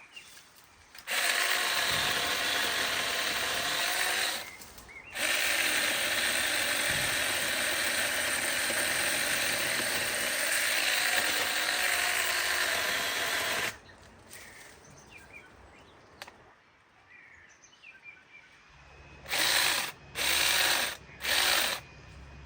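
A chainsaw running under load in two long cuts, the first about three seconds and the second about eight and a half, then three short bursts of the throttle near the end.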